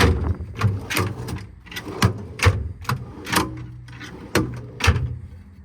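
Drawers of a C-Tech drawer unit being slid open and shut one after another: a run of irregular clicks and knocks.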